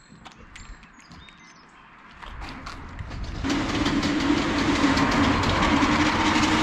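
A motorized garage door opening: a few short electronic beeps, then from about two seconds in a rising rattle that settles into a loud, steady clatter over a motor hum.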